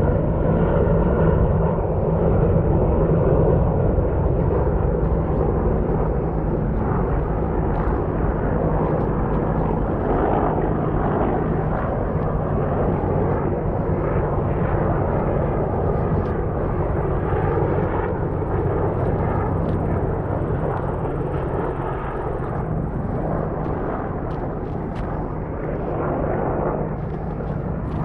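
A group of low-flying military Chinook helicopters passing over: a loud, steady, heavy rotor and engine drone that eases off slightly near the end.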